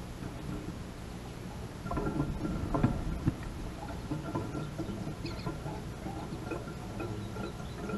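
Light taps and scratching of an American robin's feet and beak on a plastic dish feeder, with a cluster of sharper clicks about two to three seconds in, over a steady low outdoor rumble.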